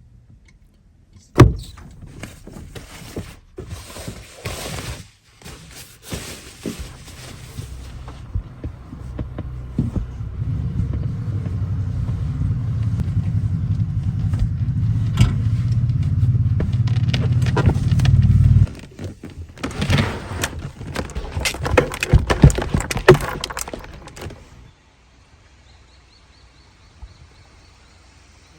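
Car sounds: a loud thunk about a second in, then a vehicle's engine rumbling steadily for about eight seconds before cutting off suddenly, followed by a few seconds of knocks and clatter.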